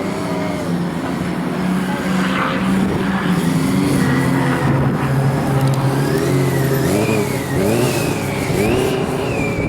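Several vehicle engines revving and running on a race track, with overlapping rising and falling notes. One engine holds a steady note that drops to a lower pitch about four seconds in.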